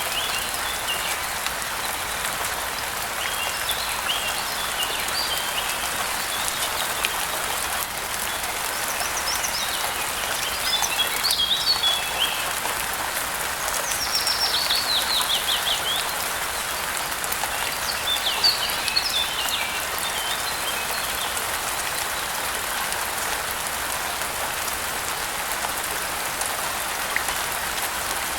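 Steady rain falling, with birds chirping in short scattered bursts over it; about halfway through, one bird gives a quick run of falling notes.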